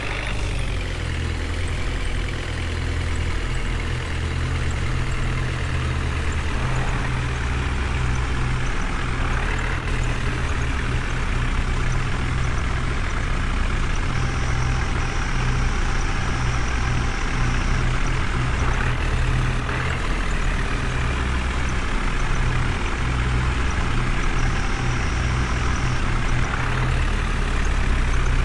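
A heavy truck engine running steadily, its low rumble holding through, with brief rises in pitch near the start and about ten seconds in.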